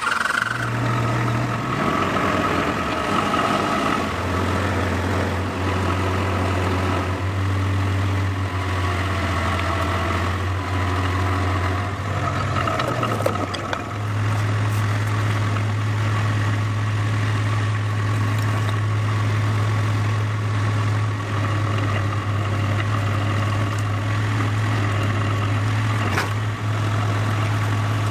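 A large engine running steadily, as machinery moves the heavy stone; its speed shifts about four seconds in and again around thirteen seconds in.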